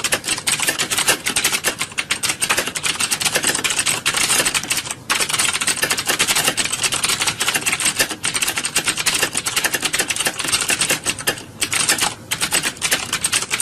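Many computer keyboards being typed on at once, as in a typing exam hall: a dense, continuous clatter of overlapping keystrokes with brief lulls about five seconds in and again near the end.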